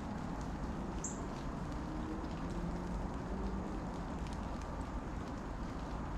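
Steady rain falling, with a constant hiss and many small scattered drips and taps. A single short, high chirp sounds about a second in.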